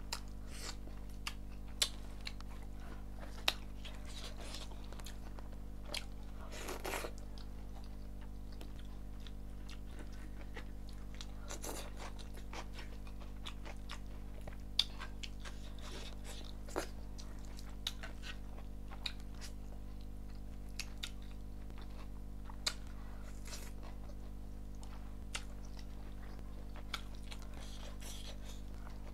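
Close-miked eating: a person chewing mouthfuls of rice and chicken, with short sharp clicks and smacks every second or two and a few longer crunching rustles, over a steady low hum.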